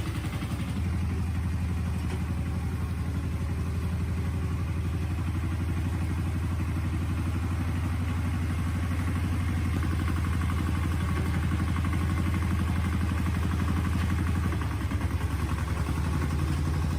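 An engine running steadily at a constant speed with a rapid, even firing beat. It eases slightly near the end and then cuts off abruptly.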